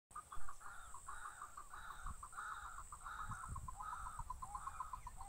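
Birds calling in the background: a fast, steady run of short repeated calls, with a few low knocks.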